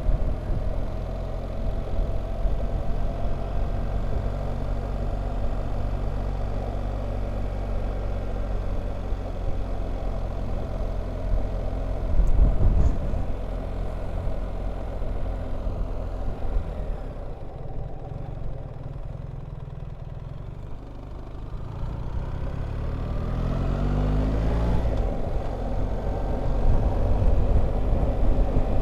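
BMW R1300GS boxer-twin engine running while riding. It backs off about two-thirds of the way through, then pulls away again with a rising note. There is a single knock about twelve seconds in.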